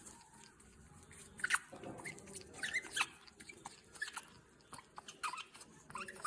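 African grey parrot chewing and biting with its beak: scattered crunching clicks, with a few short squeaky sounds in between.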